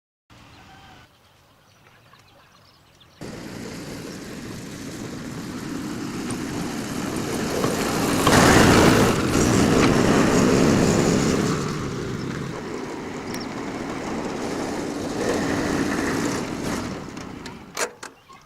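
A motor vehicle's engine comes in suddenly, grows louder to a peak midway, then fades away, as a vehicle passing by.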